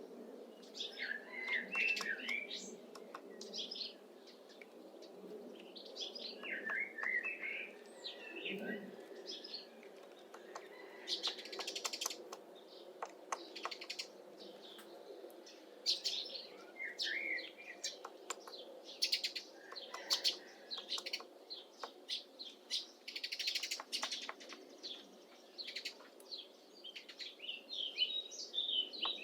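Syrian woodpecker chiselling into apple wood: groups of sharp taps, some in quick runs, as it carves out a nest hole. Small songbirds chirp and sing throughout.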